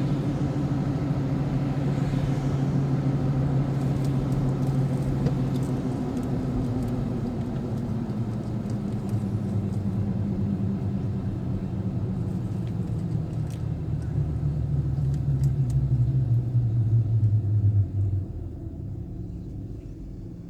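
Motor vehicle engine and road noise while driving. The engine note holds steady, then slowly falls in pitch while growing louder, and drops away sharply near the end.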